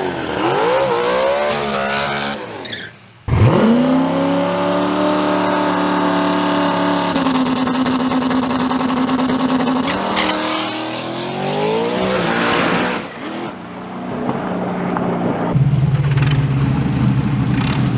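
Race truck engine revving, its pitch rising and falling. It cuts off abruptly about three seconds in, then picks up again, holds steady runs and climbs before dropping back.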